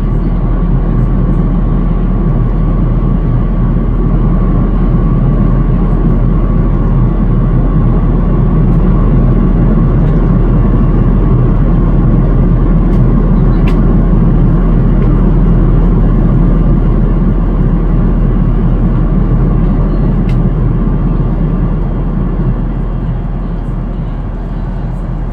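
Airbus A380 cabin noise in cruise: a steady, dense roar of airflow and engines with a low hum and a thin steady whine, easing slightly near the end.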